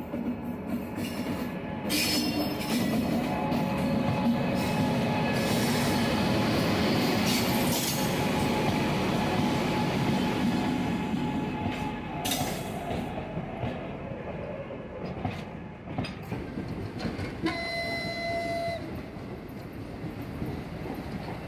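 An electric locomotive and its freight wagons, loaded with oxygen tank containers, running past close by: a loud, steady rumble with wheel clatter, easing off after about twelve seconds. Near the end, a short horn blast of about a second.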